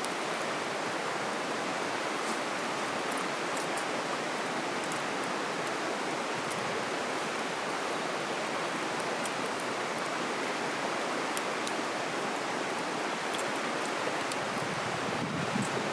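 Steady rushing of a stream or river, with a few faint high ticks scattered through it.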